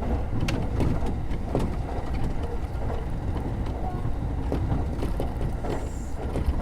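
Commuter electric train running along the line, heard from inside the car: a steady low rumble with a few scattered clicks.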